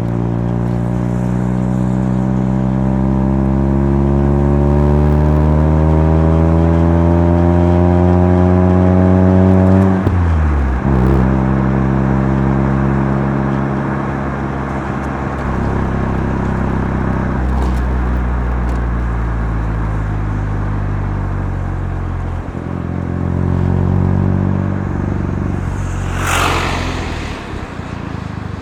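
Mazda RX-7 FC3S 13B twin-rotor rotary engine heard through a Knight Sports Legal Sports aftermarket muffler while driving. The engine note climbs steadily under acceleration for about ten seconds, drops sharply, then rises and falls again a few times. A short sharp burst of noise comes near the end.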